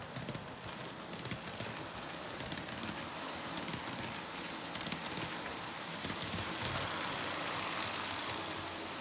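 N scale Athearn F59 model locomotive and coaches running on the track: a steady whirring rumble with many small clicks from the wheels on the rails, growing louder as the train comes closer, peaking about two-thirds of the way through and easing slightly near the end.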